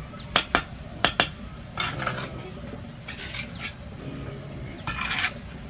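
Four sharp taps in two quick pairs, then three scraping strokes of about half a second each, over a steady high insect drone.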